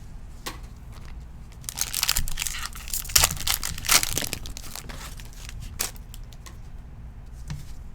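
A trading-card pack wrapper being torn open and crinkled, a dense run of crackling from about two seconds in to about four seconds in, with scattered clicks and rustles of handling around it.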